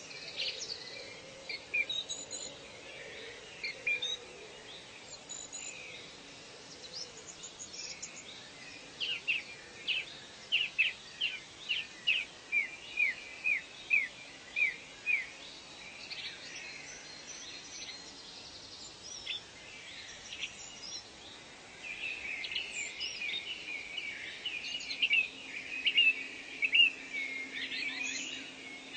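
Wild birds calling over a steady background hiss of outdoor ambience. Midway comes a run of about a dozen short notes falling in pitch, about two a second, and near the end a denser chatter of overlapping calls.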